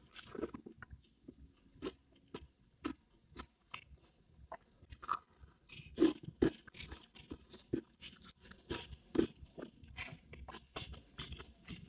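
A person chewing and crunching food in the mouth: soft, irregular crisp clicks and crunches, with a few louder crunches about six and nine seconds in.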